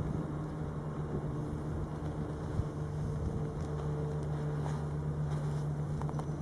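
A train giving a steady low hum, with a few faint clicks near the end.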